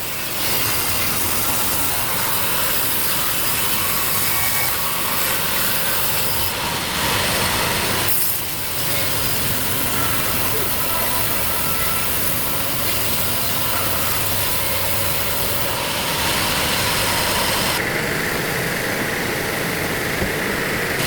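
Sawmill machinery running, a powered saw cutting through timber over a steady engine sound. The sound changes abruptly a couple of times.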